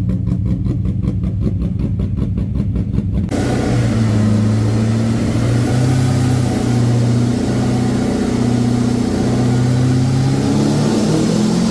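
Holden VY SS's LS1 5.7-litre V8, tuned to 312 kW, heard through its exhaust. It idles with a lumpy, pulsing beat, then about three seconds in is brought up to a higher, steady speed and held there. Near the end the revs start to rise.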